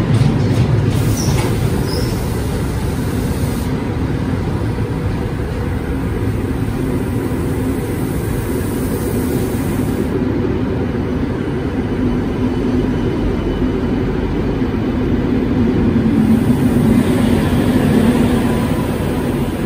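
SNCB double-deck passenger train rolling past the platform close by, a steady rumble of wheels on rail with a low hum that swells near the end.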